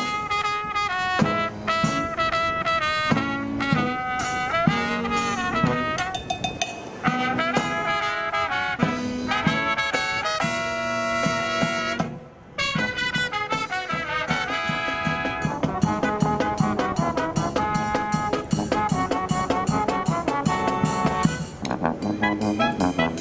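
A marching brass band plays with trumpets, trombones and drums, with a brief pause about halfway through.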